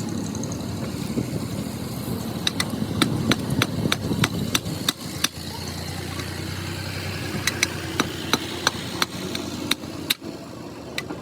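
A hammer striking metal in quick, sharp, ringing blows, about three a second, in two runs with a short pause between them, over a steady low hum.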